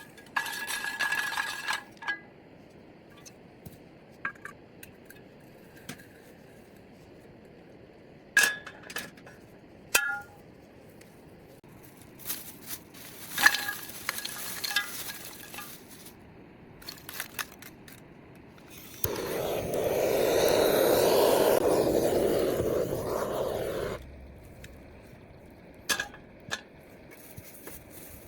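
Scattered clinks and knocks of objects being handled, then a loud, even rushing noise that lasts about five seconds, from about two-thirds of the way in.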